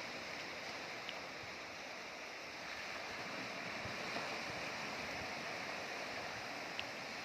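Steady wash of sea waves.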